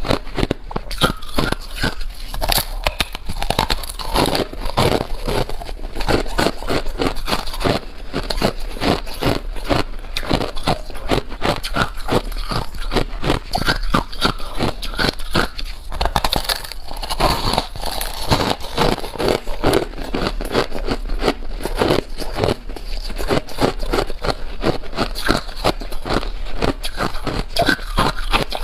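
Ice being chewed close to the microphone: a dense, unbroken run of crunching and cracking as the ice breaks between the teeth.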